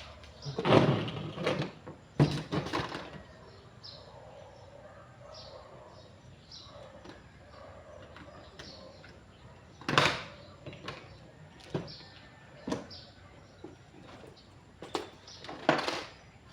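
Irregular knocks and clatters of objects being handled, loudest in the first few seconds and again about ten seconds in, with faint short bird chirps repeating between them.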